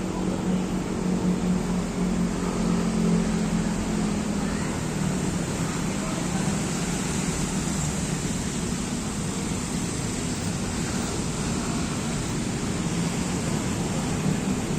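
Steady outdoor ambience dominated by a continuous low hum of distant road traffic, with a constant high hiss above it.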